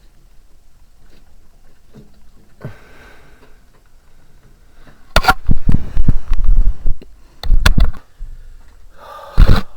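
Loud knocking and clattering while washing-machine parts are handled, in three bunches: about two seconds of it starting about five seconds in, another short run near the middle of the second half, and a brief one just before the end.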